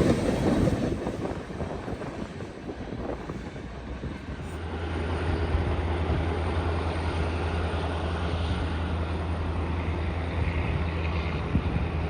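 A CN freight train's passing rumble fading away over the first few seconds. After a cut about four and a half seconds in, a steady low engine hum continues.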